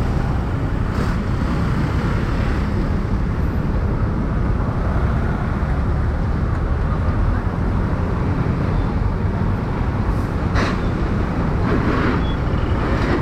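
Riding a motorcycle through city traffic: a steady low rumble of engine and wind noise.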